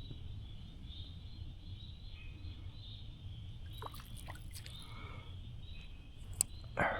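Outdoor creek ambience: a steady low rumble with faint birdsong. There are a few light clicks about two-thirds of the way through, a sharp click near the end, and then a short noisy rush just before it ends.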